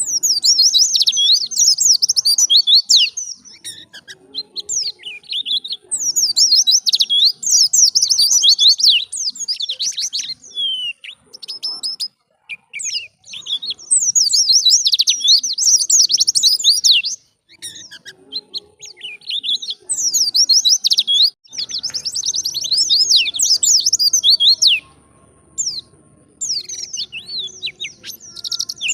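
White-eye (pleci) singing a fast, energetic song of rapid high twittering notes. It comes in long runs of several seconds, broken by brief pauses.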